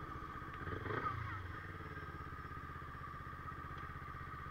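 Kawasaki Ninja 250R's parallel-twin engine idling steadily through an aftermarket R9 Racing Generation exhaust.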